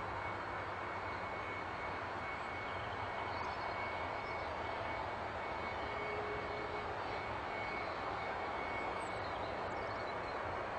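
Jet airliner engine running steadily: an even rushing noise with a faint high steady whine.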